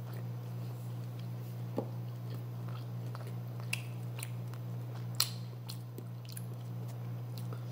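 A person chewing grilled meat with the mouth, giving a few short wet clicks and smacks, over a steady low hum.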